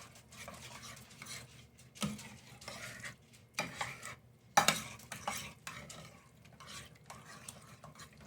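A spoon stirring a thick, gloopy mix of canned cream soups and rice in a casserole dish, scraping and clinking against the dish, with sharper knocks about two, three and a half and four and a half seconds in.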